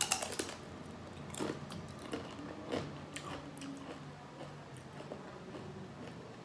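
A crunchy tortilla nacho chip topped with chunky salsa is bitten with a sharp crack right at the start, then chewed with scattered crunches, close to the microphone.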